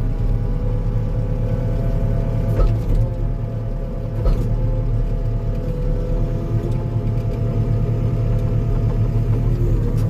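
Skid steer engine running steadily under work, with two brief knocks about two and a half and four seconds in.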